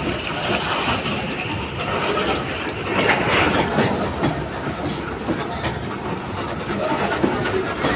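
Empty coal wagons of a freight train rolling past close by: a steady rumble of wheels on rails, with irregular clanks and clicks as the wheels cross rail joints.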